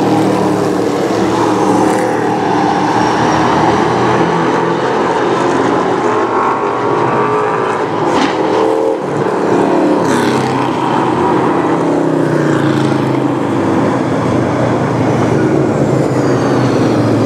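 Several late model stock car engines running together, their pitch wavering up and down.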